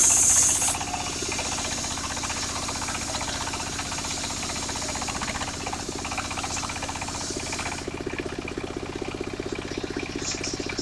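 Engine-driven portable circular sawmill running steadily while its blade saws through timber: a loud hiss in the first second, a softer cutting hiss until it drops away about eight seconds in, then the engine alone.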